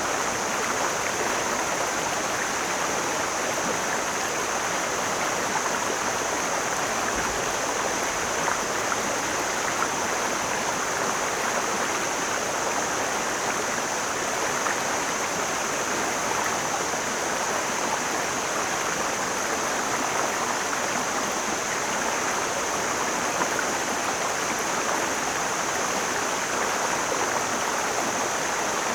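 Mountain stream flowing, a steady, unbroken rush of water with a high hiss running through it.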